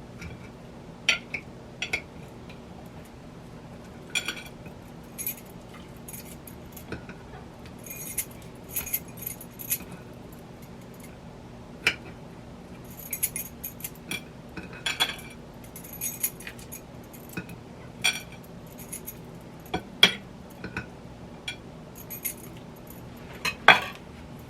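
Kitchen utensils and containers clinking and rattling: irregular sharp taps and clicks, some in short rattling clusters, with the loudest clink near the end. A faint steady low hum runs underneath.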